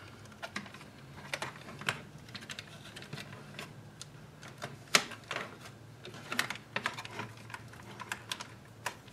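Irregular light clicks and taps of small parts being handled as a car's climate control unit is taken apart, the sharpest about five seconds in.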